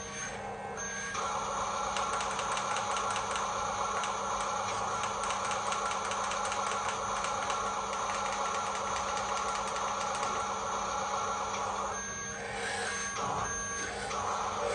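Radio-controlled toy dump truck running, its motor and gears making a steady whirring noise, with a brief lull and a few short beeps near the end.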